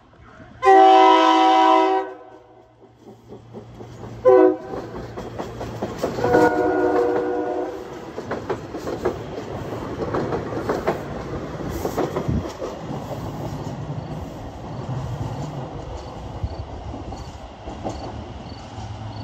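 SEPTA Silverliner V electric commuter train sounding its horn as it approaches: a long blast, a short one, then another long one. It then passes close with its wheels clicking over the rail joints, and the steady rumble fades as it moves away.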